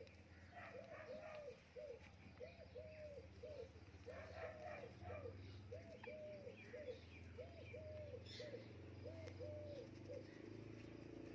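Soft, dove-like cooing: a short run of rising-and-falling coo notes, repeated over and over at an even pace, stopping about ten seconds in, with a few faint chirps above it.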